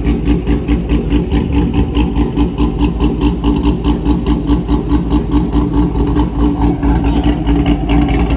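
C5 Corvette's V8 idling steadily, its exhaust note rising and falling about four times a second.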